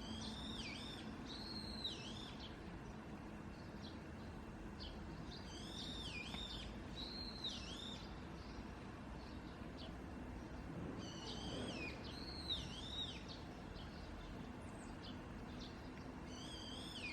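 A songbird singing in short phrases of swooping whistled notes, four bursts a few seconds apart, over a steady low background hum.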